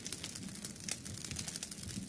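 Wood fire crackling in a fireplace, with dense, irregular small snaps over a low, steady rumble.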